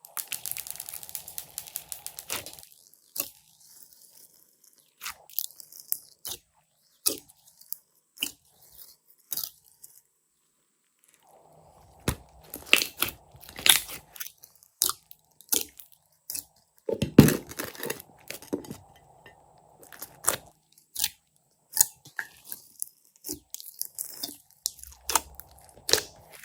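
Hands squishing and working glossy slime, making irregular sticky clicks and pops with bursts of crackling, a brief pause partway through, and the loudest squelch in the second half.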